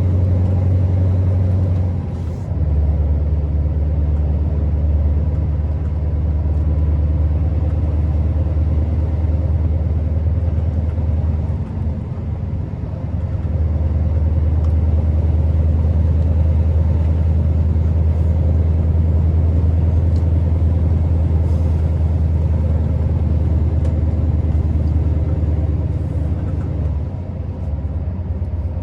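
Scania R650's 16-litre V8 diesel running steadily as the truck is driven. The low engine note steps to a new pitch about two seconds in, dips briefly around the middle, and eases off near the end.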